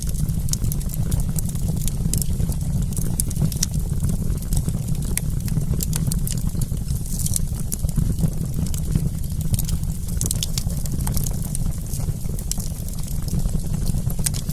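Wood campfire crackling, with frequent small sharp pops and snaps at irregular moments over a steady low rumble.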